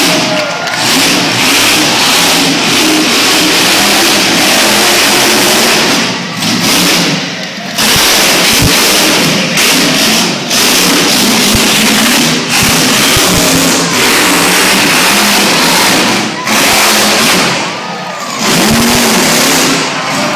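Monster truck engine running at high revs, loud and continuous, dropping off briefly a few times as the throttle is lifted and then opened again.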